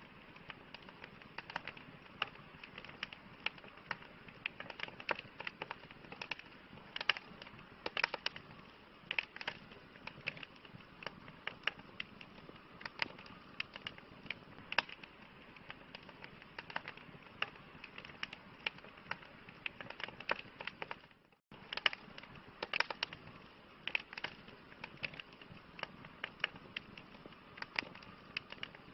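Wood campfire crackling: irregular sharp pops and snaps over a soft steady hiss. The sound cuts out for a split second about two-thirds of the way through, then resumes.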